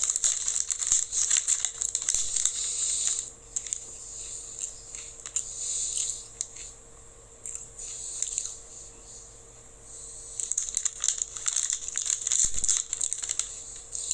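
Crinkling of a plastic snack packet being handled, in two spells: for the first three seconds or so and again from about ten seconds in, with scattered crackles between.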